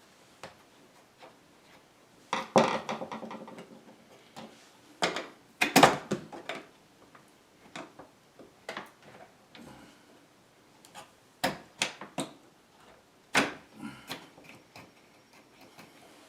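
Irregular knocks, clicks and clatter of tools and metal parts being handled while working on a dishwasher's door spring and hinge assembly. A rattling clatter comes about two and a half seconds in, with sharp knocks around six and twelve seconds.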